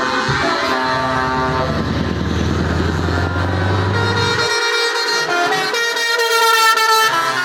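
Truck air horns sounding several held tones at once over a low engine rumble; the rumble cuts out about four and a half seconds in, and a louder horn chord sounds near the end.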